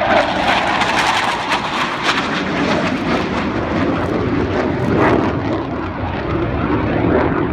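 Panavia Tornado GR4's twin RB199 turbofans roaring loud and steady as the jet flies low past and away, the roar swelling and easing slightly over several seconds.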